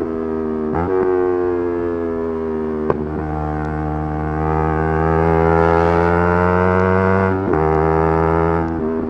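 Yamaha R3's parallel-twin engine running hard at high revs. The note dips and then rises steadily for several seconds as the bike accelerates, broken by short sharp changes about a second in, about three seconds in and near the end, typical of gear shifts.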